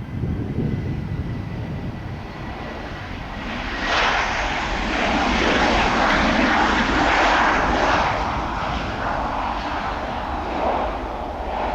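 Jet airliner arriving to land, its engine noise swelling sharply about four seconds in, loudest midway, then easing off as it passes.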